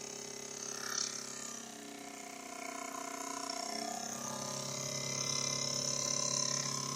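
Mamod SP3 toy steam engine running, spinning a small electric motor used as a generator. A steady whine that shifts in pitch a few times and grows louder toward the end, with a single click about a second in.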